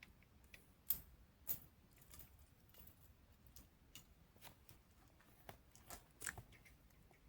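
Scattered sharp clicks and crunches over a quiet background, loudest about a second and a second and a half in and again around six seconds in.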